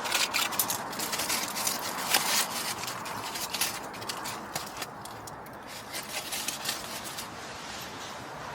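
Irregular clicks, crackles and scrapes, dense in the first half, thinning out, then picking up again near the end.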